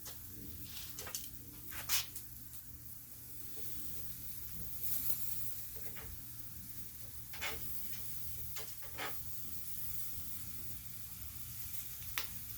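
Quail sizzling on a charcoal grill, with scattered sharp pops and crackles and a brief hiss about five seconds in.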